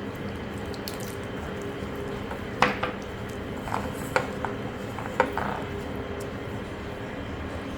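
Pizza dough being mixed by hand in a bowl with lukewarm water: soft squishing and stirring, with a few sharp clinks against the bowl over a steady low hum.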